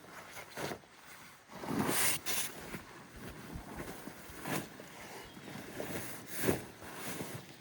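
Irregular rustling and crunching of handled or disturbed brush, loudest about two seconds in, with a few sharper crunches later.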